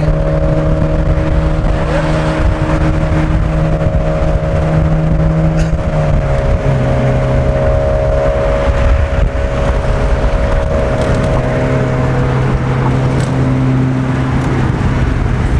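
Mazda Miata's inline-four engine droning steadily at highway cruise, heard from inside the open-top car with wind and road noise. About six seconds in, the engine note drops to a lower pitch and then holds steady.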